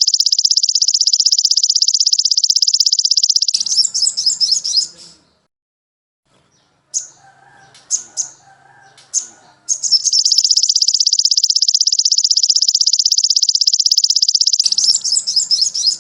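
Recorded songbird song played as a training track: a long, fast, high trill of about three and a half seconds, then a short warbling phrase, a pause with a few sharp chirps, and the same long trill again, repeating in a loop.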